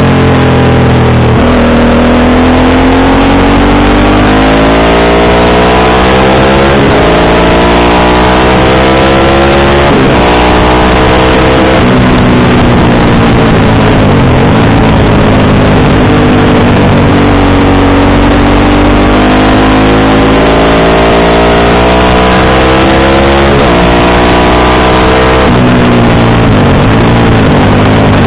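Motorcycle engine being ridden hard, revs climbing steadily and then dropping sharply at several gear changes, with long stretches of rising and easing throttle.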